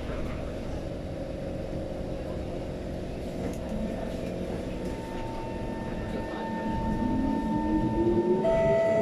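Metro train's electric traction motors starting to pull away, with a steady running noise and a whine that rises in pitch over the last couple of seconds as the train speeds up.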